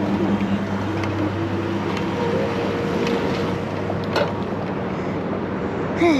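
Wind rushing over the microphone and road noise during a bike ride, with a steady low engine hum from traffic. A short, loud, falling squeak near the end.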